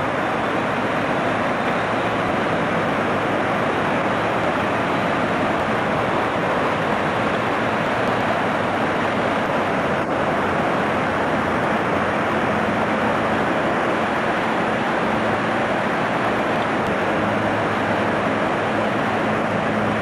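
Car driving, a steady rushing road and wind noise with a low engine hum, heard from inside the car.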